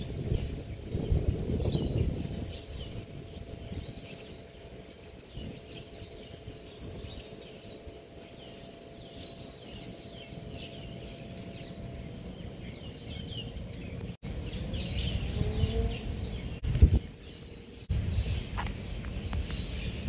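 Small birds chirping, many short high calls in quick succession, over a low rumble that swells in the first few seconds and again near the end.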